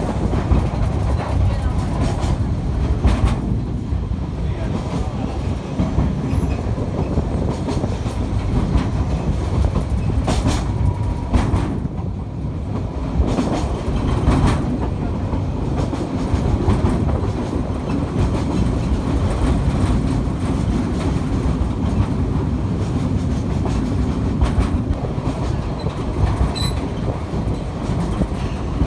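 Narrow-gauge light railway train running, with a steady low rumble and scattered clicks of the wheels over rail joints.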